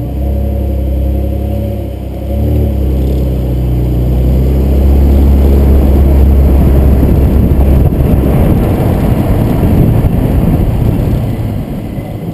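A 2007 Nissan Maxima's V6 engine pulling under acceleration, with a brief dip and rise in pitch about two seconds in, then tyre and wind noise building as the car gathers speed and easing off near the end. No brake squeal is heard.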